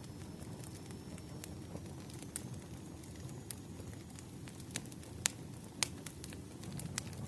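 Campfire burning, its wood crackling with scattered sharp pops over a steady low rumble of flame; two louder pops come a little past the middle.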